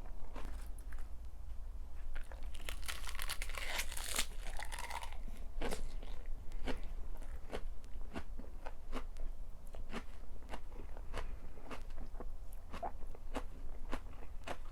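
A person chewing crunchy food close to the microphone, in even strokes about two a second, with a louder run of crunching about three to five seconds in.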